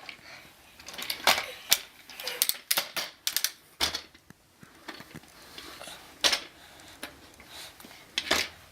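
A toy digger truck being handled and knocked about: a run of sharp clacks and knocks, bunched in the first few seconds, then a quieter stretch with single knocks at about six and eight seconds.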